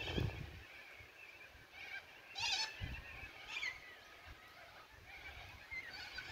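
Wild birds calling: a quick burst of chirps about two and a half seconds in and a short falling call a second later, then more scattered calls near the end, with a few soft low thumps underneath.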